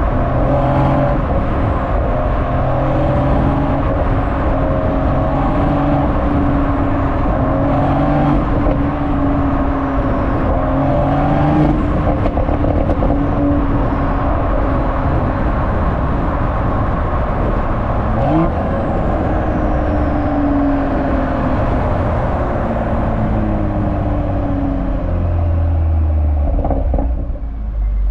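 Exhaust of a BMW M340i's B58 3.0-litre turbocharged inline-six while driving, its engine note stepping up and down in pitch as the revs change. Near the end the note drops lower before easing off.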